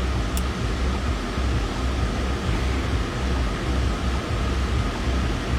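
Steady low rumble and hiss of a car's cabin on the move, with road and engine noise.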